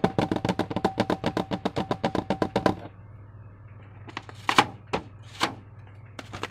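Slime being handled: a quick, even run of small clicks, about ten a second for nearly three seconds, then two single louder clicks about a second apart, over a low steady hum.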